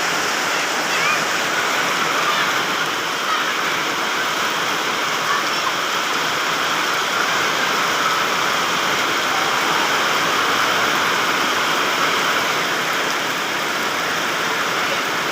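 Heavy rain pouring down steadily, a dense even hiss of water with no breaks.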